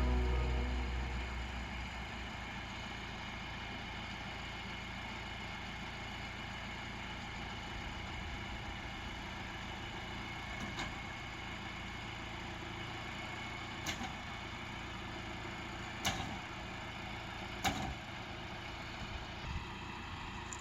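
Tractor engine running steadily, with four sharp knocks or clanks in the second half. Background music fades out in the first two seconds.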